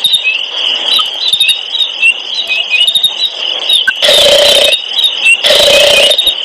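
Rapid high-pitched chirping, like birds, interrupted by two loud noisy blasts of under a second each, about four and five and a half seconds in.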